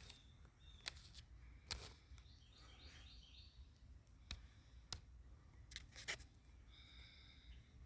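Near silence, with faint bird chirps: a quick run of short notes about two seconds in and a thin steady call near the end. A few light clicks are scattered through it.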